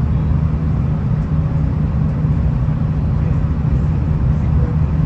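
V/Line VLocity diesel railcar running at speed, heard from inside the carriage: a steady low rumble of engine and wheels on the rails, with no distinct knocks or changes.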